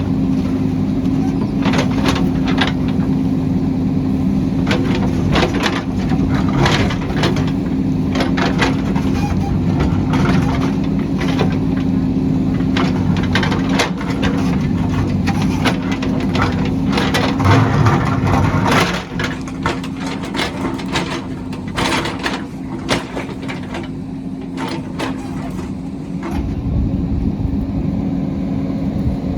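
Diesel engine of a heavy construction machine running steadily under work, with many sharp metal clanks and knocks over it. The engine gets quieter about two-thirds of the way through.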